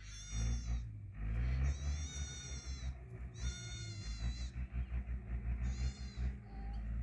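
Young animals crying: four separate high-pitched calls, the longest about a second, over a steady low rumble.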